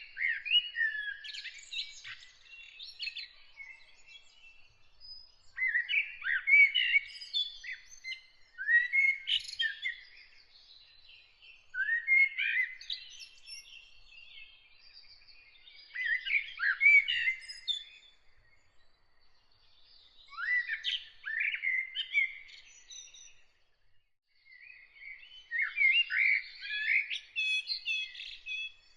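A songbird singing in short warbled phrases of a couple of seconds each, about seven of them, separated by brief pauses.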